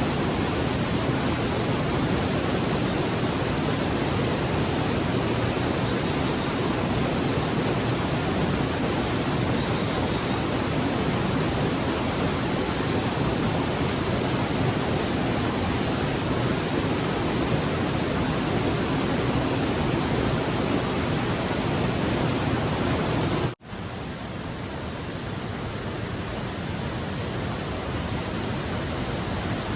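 Rushing stream water, a steady, even rush. About 23 seconds in it cuts out for an instant, then comes back a little quieter.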